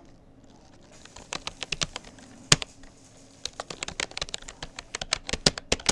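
Keystrokes on a Rapoo computer keyboard, typing at about 35 words per minute: runs of quick clicks that begin about a second in, break off briefly around the middle, then carry on.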